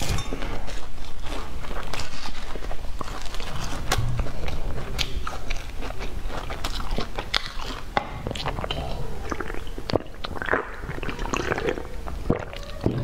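Close-miked chewing of a mouthful of soft bread, with many small wet mouth clicks and smacks throughout.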